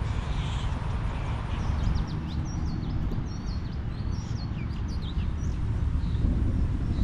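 A bird singing a run of quick, sliding chirps for a few seconds, over a steady low rumble.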